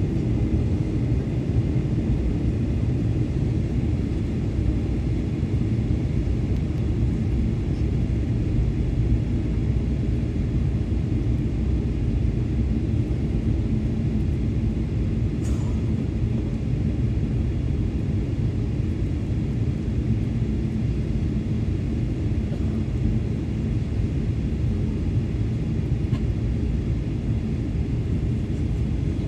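Steady low cabin rumble of an Airbus A320 airliner in flight on its landing approach, engines and airflow, with a faint steady hum. One brief click about halfway through.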